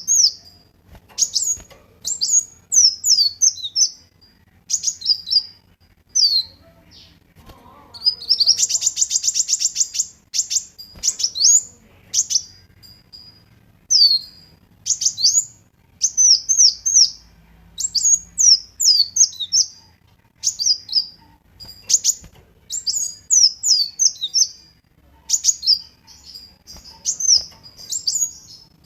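Kolibri wulung sunbird singing: a rapid run of high, sharp chirps and quick up-and-down whistled sweeps in short phrases, with a fast buzzy trill about eight seconds in.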